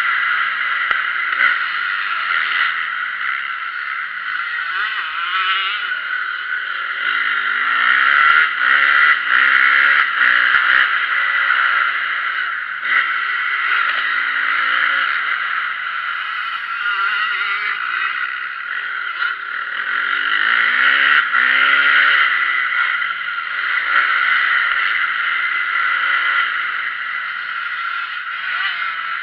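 Motocross bike engines revving up and falling back repeatedly as the bikes ride the track, under a steady high engine drone.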